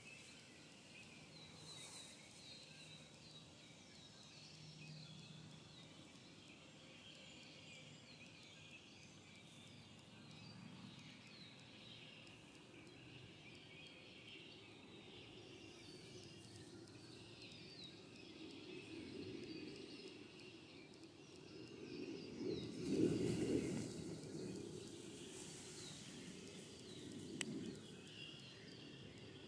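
Quiet woodland ambience with small birds chirping throughout. About three-quarters of the way in comes a louder rustling, and near the end a faint click.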